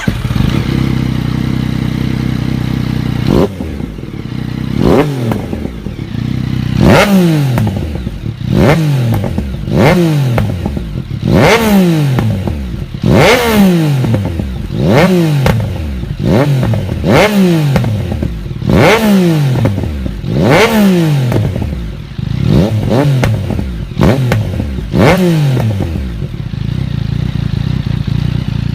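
Yamaha MT-09 three-cylinder engine through its exhaust, idling and then revved in quick throttle blips, about one every second and a half, each rev rising sharply and falling back to idle. It settles back to idle near the end.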